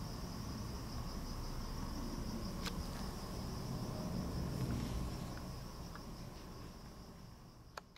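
Insects, crickets by the sound of it, chirping in a steady high trill over a low background rumble, fading out over the last few seconds.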